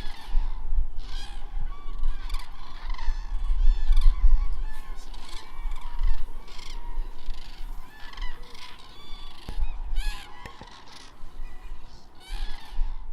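A chorus of shorebirds and waterbirds calling, many short, repeated, harsh pitched calls overlapping, with a low rumble of wind on the microphone beneath them.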